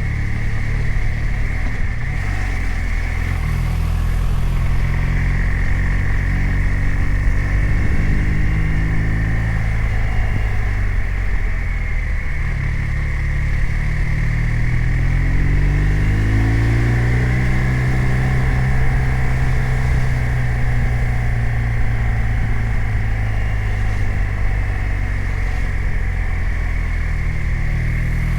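BMW R 1250 RT's boxer twin engine under way on a ride. The revs rise in the first few seconds, fall away to a low point a little before the middle, climb again shortly after, then hold fairly steady.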